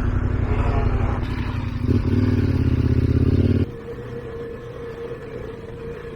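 KTM adventure motorcycle engine revved hard, getting louder about two seconds in, then dropping suddenly to a quieter idle a little past halfway, as the bike struggles in deep mud.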